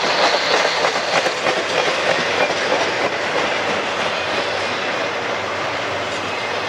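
Intermodal freight cars rolling steadily past close by on a 25 mph slow order: a continuous rush of steel wheels on rail with scattered clicks and clacks from the trucks.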